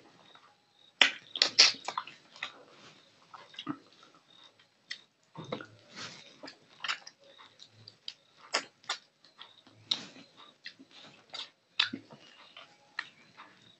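Close-miked eating sounds of a person chewing fish curry and rice eaten by hand: irregular wet mouth clicks and smacks, the loudest cluster about a second in.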